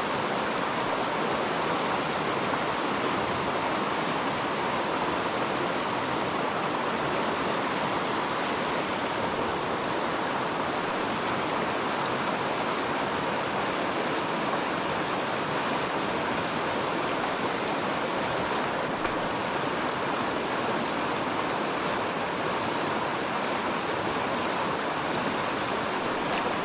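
River water rushing steadily, a constant even wash of flowing water.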